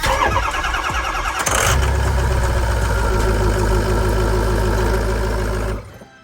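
Ford F350's 6.0 Power Stroke V8 turbodiesel cranking on the starter for about a second and a half, then catching and running steadily: the crank-no-start fault is cured. The sound cuts off suddenly near the end.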